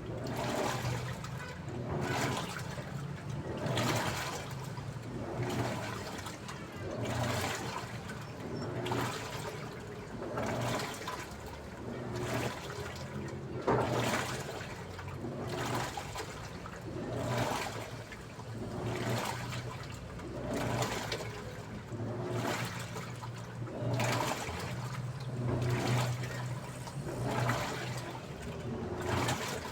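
Daewoo washing machine agitating its load. Water sloshes in a surge roughly every one and a half to two seconds as the drum turns back and forth, over a steady low motor hum.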